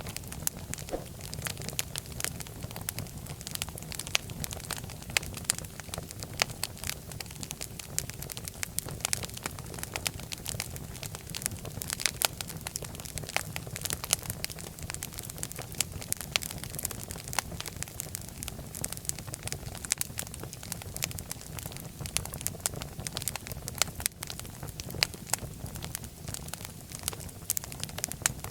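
Fire crackling in a fireplace: many irregular sharp pops and snaps over a steady low rumble of the flames.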